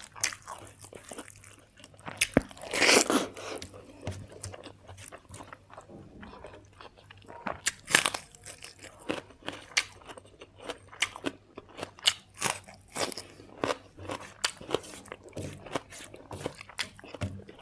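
A person biting and chewing crunchy food close to the microphone, with irregular crisp crunches.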